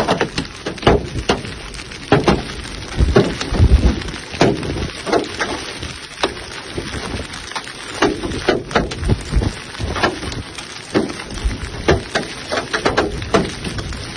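Large hailstones hitting hard surfaces in a heavy hailstorm: dense, irregular hard impacts, several a second, over a steady hiss of falling hail and rain.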